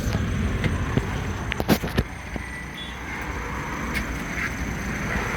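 Mercedes-Benz T1 minibus running, heard from inside the cabin: a steady low engine and road rumble with a few sharp knocks or rattles about two seconds in, after which it runs a little quieter.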